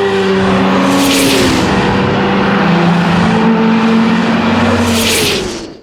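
Racing car engines running hard on a circuit, the pitch gliding and stepping up and down with revs and gear changes, with two brief swells of rushing noise as cars go by. The sound fades out near the end.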